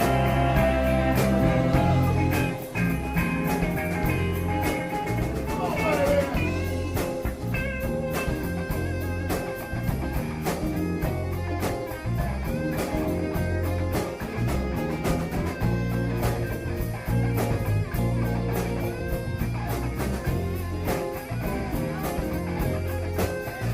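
Rock band of two electric guitars, bass guitar and drum kit playing an instrumental passage, with a lead guitar line over a steady bass and drum groove. About six seconds in, a note slides down in pitch.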